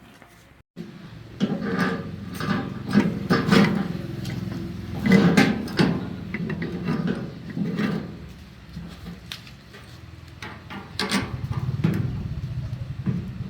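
Irregular knocks and clatter of work on a machine, then a small engine running with a steady fast-pulsing rumble from about two seconds before the end.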